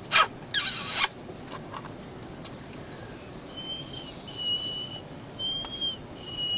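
Two short, harsh, squeaky bird calls in the first second, then four thin, high, even tones of about half a second each, spaced over the last three seconds.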